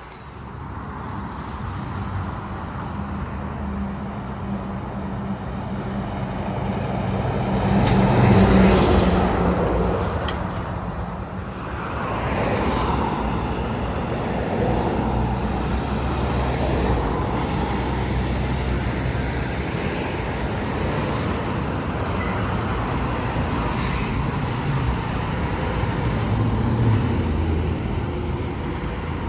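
Highway traffic passing, with engine hum and tyre noise from trucks and cars going by. The loudest pass-by swells and fades about eight seconds in, and another follows a few seconds later.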